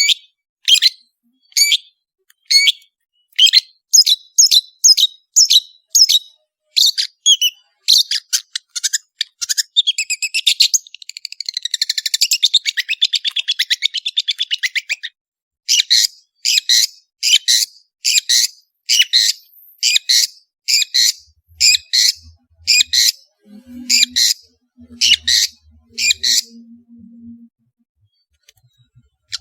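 Long-tailed shrike singing: a run of sharp, repeated high calls that come faster as it goes on, breaking about ten seconds in into a fast rattling trill for several seconds. The sharp calls then resume and stop shortly before the end.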